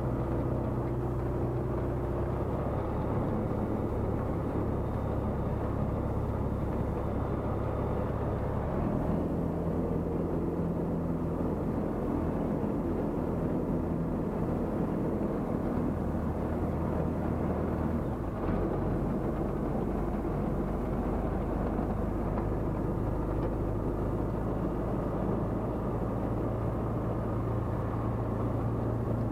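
Tecnam P96 Golf light aircraft's Rotax 912 engine and propeller droning steadily in flight, the engine note shifting about 9 seconds in and again about 18 seconds in.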